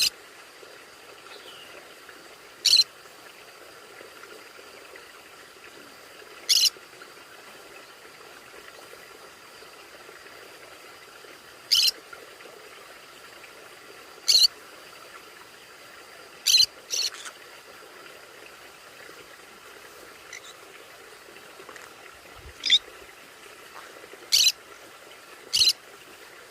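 Conure giving short, sharp, high-pitched squawks, about nine single calls at irregular intervals a few seconds apart, two in quick succession about two-thirds of the way through, over a faint steady hiss.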